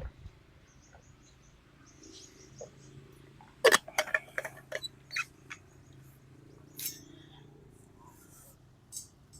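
A quick run of sharp clicks and knocks about four seconds in, with a couple of single clicks later, over a low steady hum.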